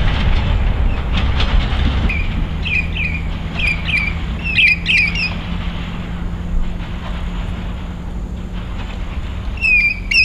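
Narrow gauge wheat train rumbling past with a few wheel clicks; the rumble eases after about two seconds, leaving a steady low hum. Over it a bird gives short, sharp, down-slurred chirps, a run of them from about two to five seconds in and again near the end.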